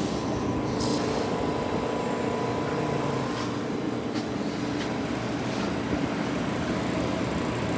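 1971 Philco-Ford window air conditioner running steadily with its cover off: compressor humming and blower fan moving air, with a few faint ticks. The compressor is running and cooling on its newly fitted TXV and hard start kit.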